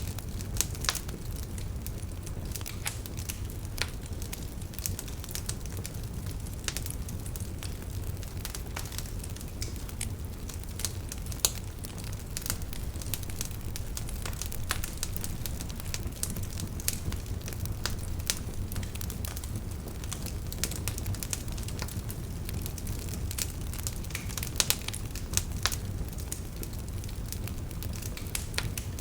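Wood fire burning in a fireplace, with a steady low rumble under frequent irregular sharp crackles and pops.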